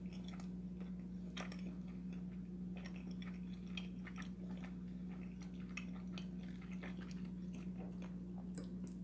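Someone chewing food close to the microphone: soft, irregular small clicks and crunches, over a steady low hum.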